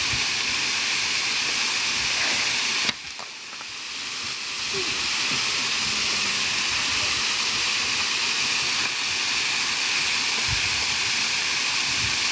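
Waterfall's rushing water, a steady hiss. It drops sharply about three seconds in and fades back up over the next couple of seconds.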